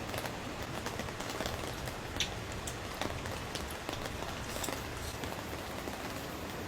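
Steady rain falling, an even hiss with scattered sharper drop ticks, one louder click about two seconds in.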